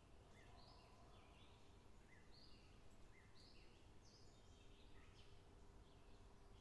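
Near silence: faint outdoor quiet with a small bird giving repeated short chirps through it.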